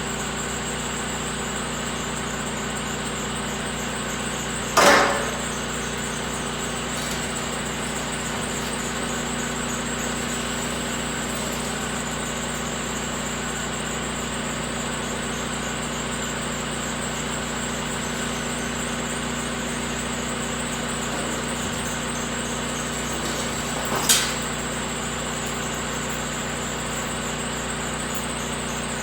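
Steady machine hum, like an engine idling, under two sharp metallic clanks: a loud one with a brief ring about five seconds in, and a smaller one near the end, typical of steel parts or tools knocking while a truck's tag axle is being taken off.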